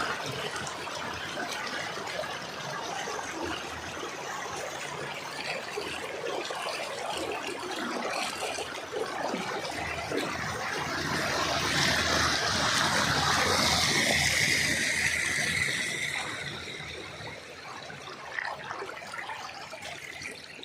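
Flood water flowing over a submerged road: a steady rushing and trickling that swells louder for a few seconds around the middle, then eases.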